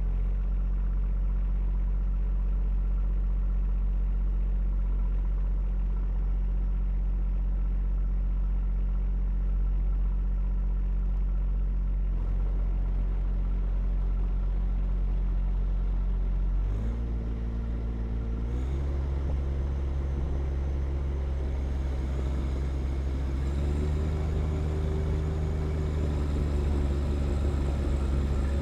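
John Deere 1025R sub-compact tractor's three-cylinder diesel engine running steadily, with its note shifting to a different engine speed about two-thirds of the way through and again a few seconds later.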